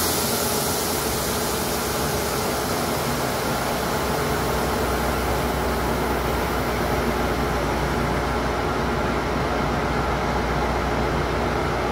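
A MARC diesel commuter train running past or through the station with a steady rumble, a deeper low rumble setting in about four and a half seconds in.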